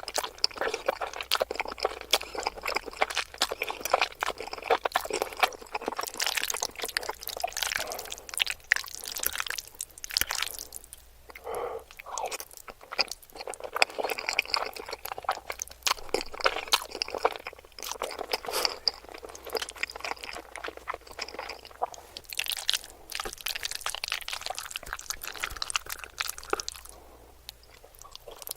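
Close-miked eating: irregular chewing with wet mouth clicks and bursts of crunching, typical of mukbang-style eating of pasta, chicken and chips.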